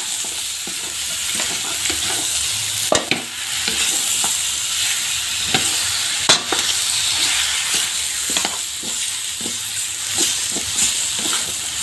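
Beef, beef skin and onions sizzling and frying in a metal wok, stirred with a wooden spatula that scrapes and knocks against the pan. The sharpest knocks come about three seconds and about six seconds in.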